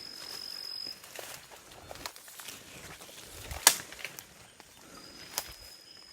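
Footsteps and sharp taps outdoors, the loudest a little past halfway. A high steady trill stops about a second in and starts again near the end.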